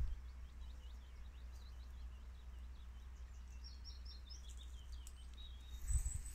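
Faint birdsong from the surrounding woodland: a run of short, quick chirps over a steady low rumble, with a low thump near the end.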